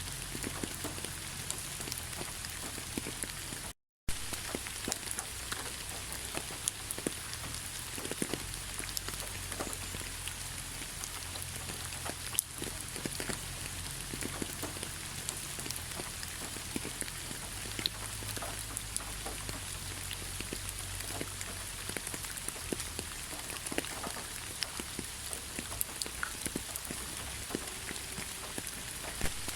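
Heavy rain falling steadily, with many sharp drop ticks on a surface over a constant hiss. The sound cuts out completely for a split second about four seconds in.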